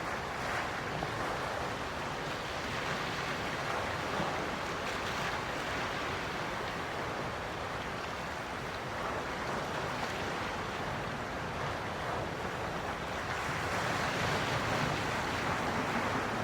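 Calm sea waves washing ashore: a steady, soft wash of surf that swells gently and grows a little louder near the end.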